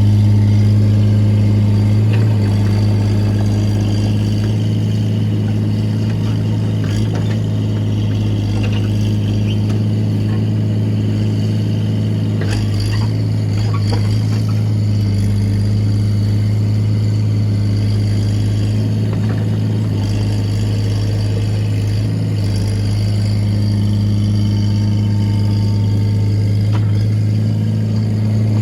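Excavator's diesel engine running steadily with a constant low drone, with a few short knocks about halfway through.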